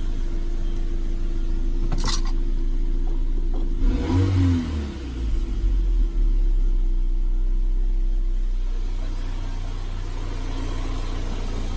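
Toyota MR2 Turbo's 2.0-litre turbocharged four-cylinder engine (3S-GTE) idling steadily after its service, with one brief blip of the throttle, rising and falling, about four seconds in.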